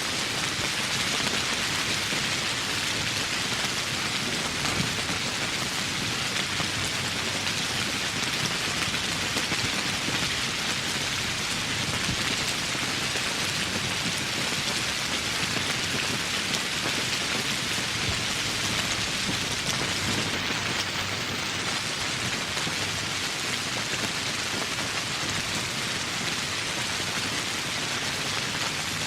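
Steady heavy rain falling on foliage and surfaces, a dense even patter of drops.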